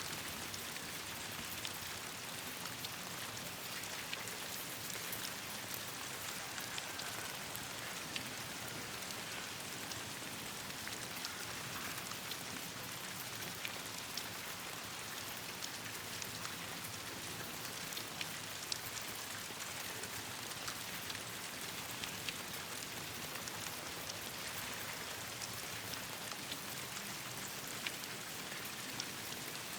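Steady rain falling, an even hiss of raindrops on leaves, with scattered sharp clicks.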